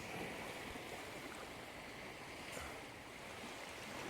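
Ocean surf washing up the sand in a steady rush, easing off a little past the middle and building again near the end.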